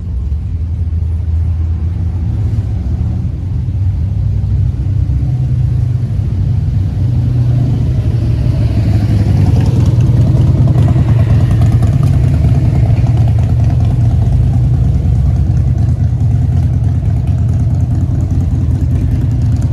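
A vehicle engine running steadily at low revs, getting a little louder around the middle.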